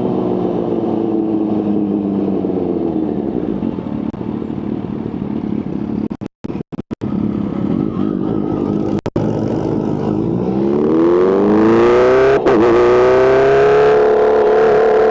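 Kawasaki H2's supercharged inline-four engine: the revs fall away over the first few seconds, the sound drops out briefly twice around the middle, then the engine revs up over about two seconds and holds at high revs, with a brief break near the top.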